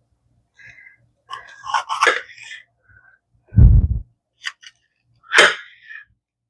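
Kitchen handling noises while a bell pepper is readied for chopping: rustling and scraping, a heavy low thump about halfway through, a couple of short clicks, then a brief rushing sound near the end.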